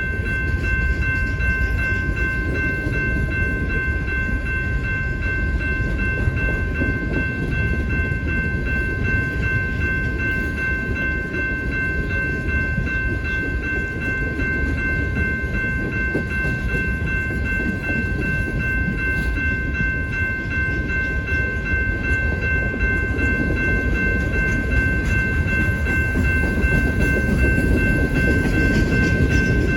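Train rolling past: a steady low rumble with a steady high-pitched ringing tone over it.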